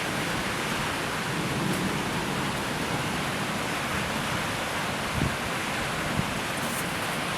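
Steady rushing storm noise of wind and rain ahead of a severe rotating thunderstorm, with two brief low thumps about five and six seconds in.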